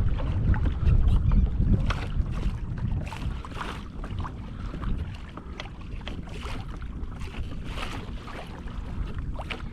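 Wind buffeting the microphone in a low rumble, strongest in the first couple of seconds, with irregular small splashes and water lapping around a moving kayak.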